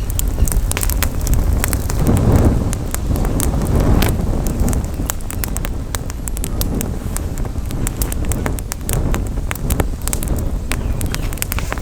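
Outdoor campfire crackling, with dense irregular snaps and pops from the burning wood. A low wind rumble on the microphone runs underneath and swells in gusts about two and four seconds in.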